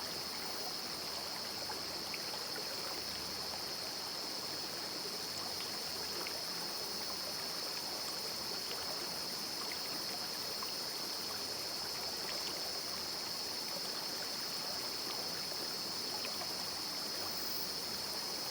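Small rocky river stream flowing and babbling steadily, with a steady high-pitched hiss over it.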